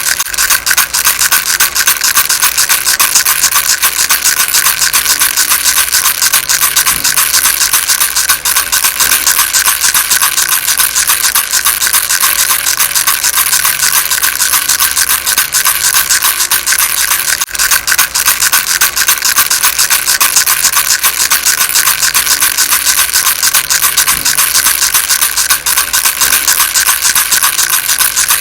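Baby rattle shaken steadily and fast: a continuous, dense, high-pitched rattling with no pauses.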